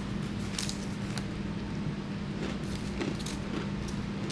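Close-miked chewing and small wet mouth clicks as a bite of sandwich is eaten, with the odd crackle of handling. A steady low hum sits underneath.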